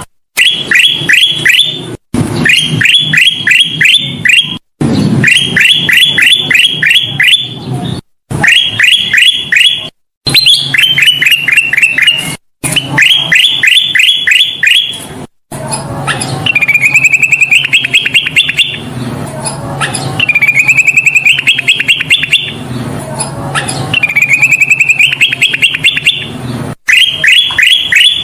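Kutilang emas bulbul singing a birdkeepers' lure song: loud phrases of quick chattering notes, repeated over and over with abrupt cuts between them like an edited loop. After about 15 seconds the phrases change to runs of notes that climb in pitch.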